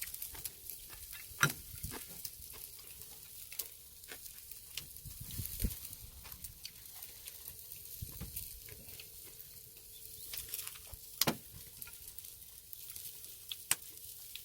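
Pork neck sizzling over a charcoal brazier, a steady faint hiss with a few sharp clicks and pops scattered through it.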